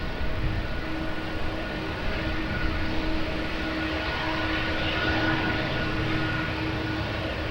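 Turbofan engines of an Embraer ERJ-190 airliner on landing approach: a steady jet noise carrying a few whining engine tones, swelling slightly about halfway through. Gusty wind rumbles on the microphone underneath.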